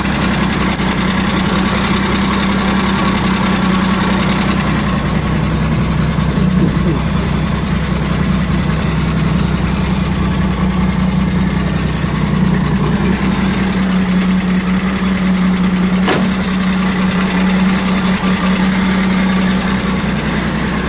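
Honda Beat's small three-cylinder engine idling steadily, just reinstalled with a new crank pulley and crank-angle sensor. A single sharp click sounds near the three-quarter mark.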